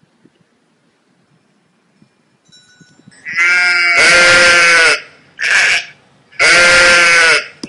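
Sheep bleating close by: three loud bleats, the first starting about three seconds in, the first and last long and the middle one short.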